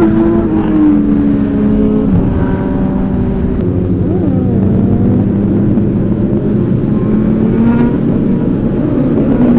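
Several superbike engines, mostly Suzuki Hayabusa inline-fours, running together. Their pitch rises and falls as they rev.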